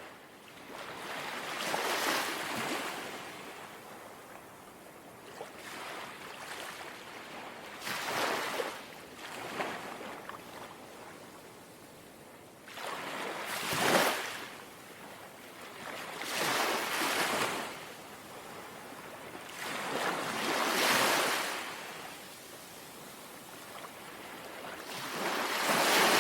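Gentle sea waves lapping on the shore, one soft swash rising and falling every few seconds, about six times.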